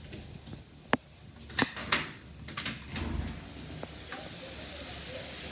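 Clicks and knocks of a door being unlatched and opened. About three seconds in a steady hiss of rain comes in and stays.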